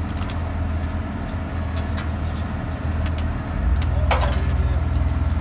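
Heavy vehicle's engine running with a steady low rumble that grows louder about three and a half seconds in, with a brief knock shortly after.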